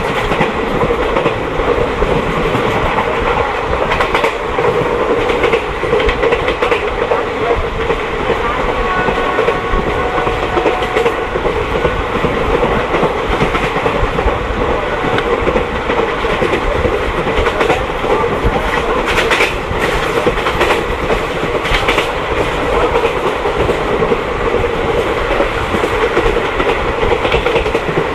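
Passenger train running along the track, heard from on board: a steady rumble of wheels on rails, with the clack of the wheels over rail joints now and then.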